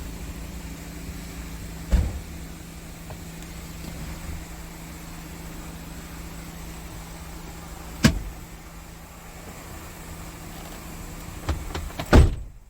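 Scania R580's V8 diesel engine idling steadily, with a few sharp clicks or knocks over it, the loudest near the end.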